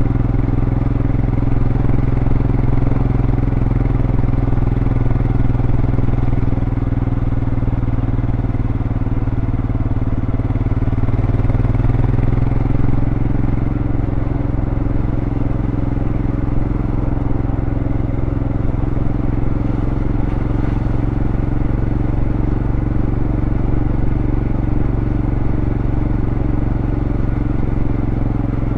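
Royal Enfield Scram 411's single-cylinder engine running steadily through its stock exhaust while riding at an even pace, its note shifting slightly about thirteen seconds in.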